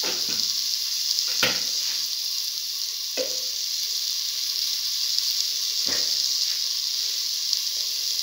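Onion, shallots, tomato and ivy gourd frying in oil in a steel pan, a steady sizzle, with a few brief knocks.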